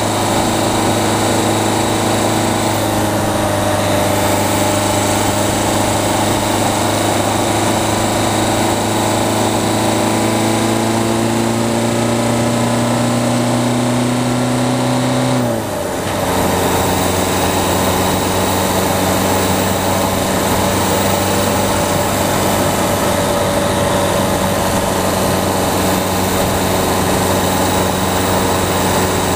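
Peugeot 208's diesel engine pulling under load, its note slowly rising for about fifteen seconds. About halfway through the pitch drops sharply with a brief dip in loudness, as at an upshift, and the engine then runs on at a steady lower pitch.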